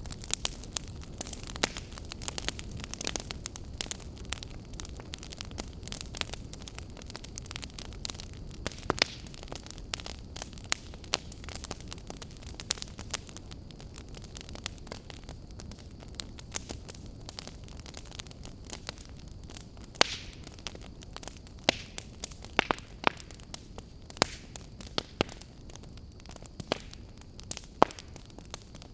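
Wood fire crackling in a fireplace: a steady low rumble of burning with frequent irregular sharp pops and snaps, a few louder pops near the end.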